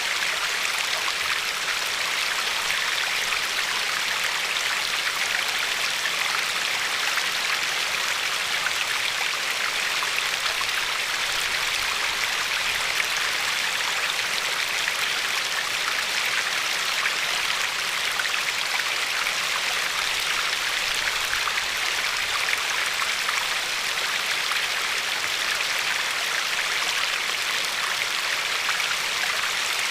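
River water flowing steadily over a pebbly bed, a constant even rush with a light lapping at the shore.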